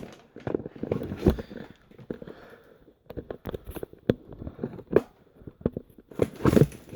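Irregular clicks, knocks and scrapes of a phone and selfie stick being handled close to the microphone.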